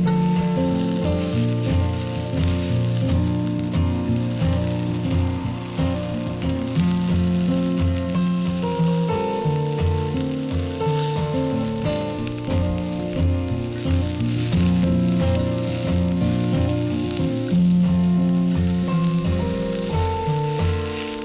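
Steady sizzling from food grilling over the wood fire in a Belmont TABI fire pit, under background music with held notes and a bass line.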